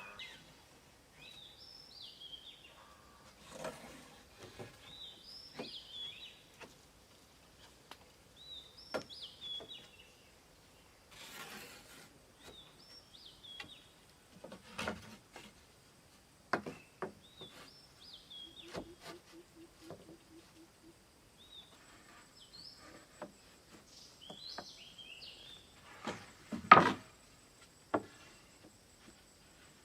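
A songbird repeating a short high phrase every few seconds over scattered knocks and scrapes of wood being handled, the loudest knock near the end. A brief rapid buzz comes a little past the middle, and a faint high insect-like whine runs through the last third.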